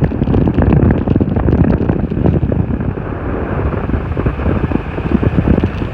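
Wind buffeting the microphone: a loud, mostly low rumble broken by many quick irregular gusts.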